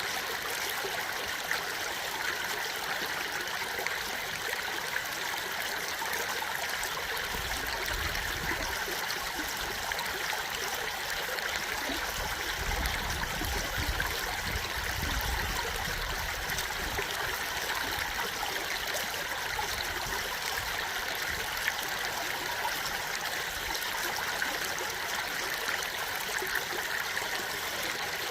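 Stream water flowing and trickling over stones in a steady, unbroken rush, with a soft low rumble now and then.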